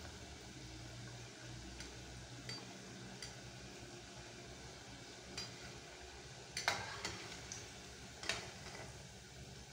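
Jiló fritters frying in oil in an aluminium saucepan, a low steady sizzle. A long metal spoon stirs in the pot and clicks against the pan a few times, loudest about seven seconds in and again about a second and a half later.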